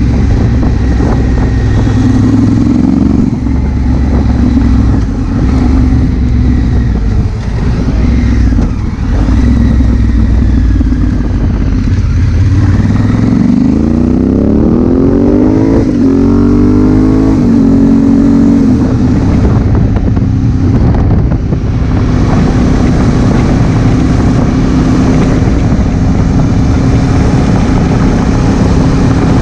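2016 Honda Africa Twin CRF1000L's parallel-twin engine under way. About halfway through it accelerates, its pitch climbing through two gears, then it settles into a steady cruise.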